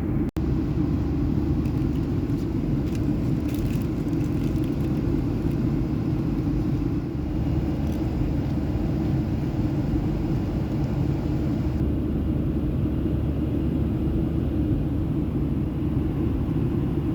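Steady low rumble of a Boeing 737's passenger cabin in flight, the engine and airflow noise of cruise, cut once by a brief dropout just after the start.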